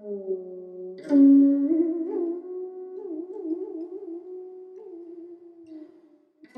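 Đàn bầu, the Vietnamese one-stringed monochord, playing a slow melody. A note is plucked about a second in, then the pitch bends up and down with a wavering vibrato as the tone dies away.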